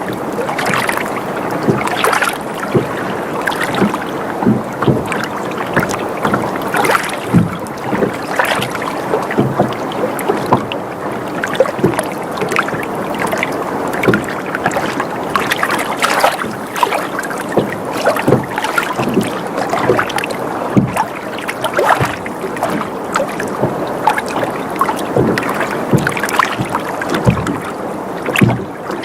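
Water sloshing and lapping against a sailboat's hull as it rocks gently, with frequent small irregular knocks and splashes.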